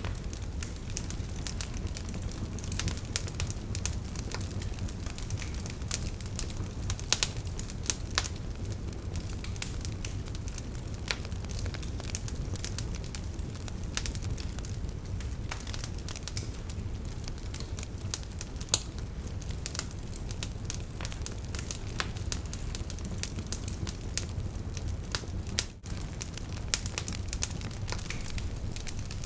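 Wood campfire burning: dense crackling with frequent sharp pops, a few louder ones, over a steady low rumble of the flames.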